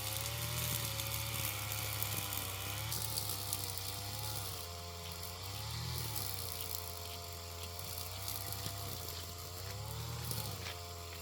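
A motor running steadily, its pitch sagging and rising again several times as its speed changes.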